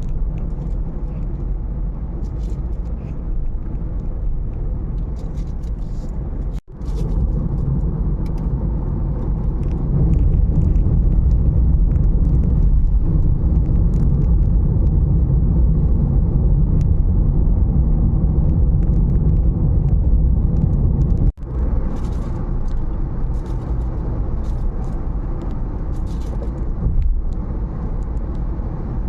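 Dust-storm wind buffeting the microphone: a loud, steady low rumble that grows stronger about a third of the way through, broken by two sudden split-second dropouts.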